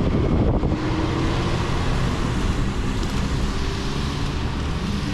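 A vehicle driving: a steady low engine and road rumble, with wind noise on the microphone.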